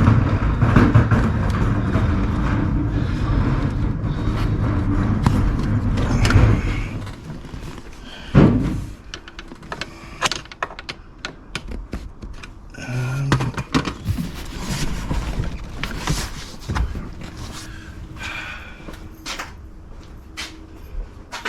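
A steady low engine-like drone that fades out about six and a half seconds in, then a run of clicks, knocks and one louder thump from hands and tools working on a car's interior trim.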